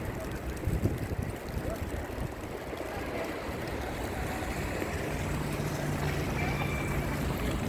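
Wind buffeting the microphone, an uneven low rumble. A steady low hum joins in about five seconds in.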